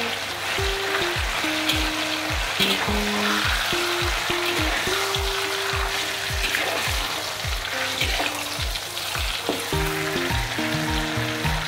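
Egg-and-tofu batter frying in hot oil in a wok, sizzling steadily while a metal spatula pushes and turns it. Background music with a steady beat plays underneath.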